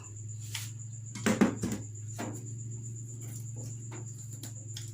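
Scattered knocks and clatters of frozen food packs being handled and taken out of a refrigerator freezer, the loudest about a second and a half in, over a steady low hum.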